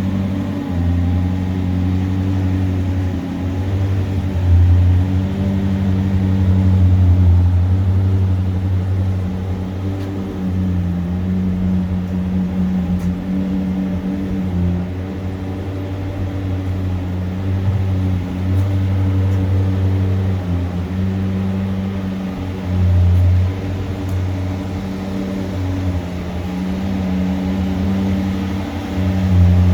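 McLaren 570S twin-turbo V8 running through a straight-piped custom exhaust, idling steadily with a deep, even note while cold, swelling briefly in loudness a few times.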